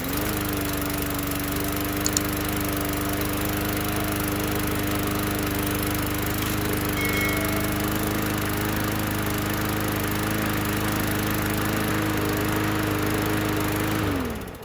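Bolens push mower engine running steadily after starting, its note settling up to speed at once, then shut off near the end and spinning down. It runs smoothly and sounds pretty good after its carburetor was cleaned and refitted with parts from another carburetor.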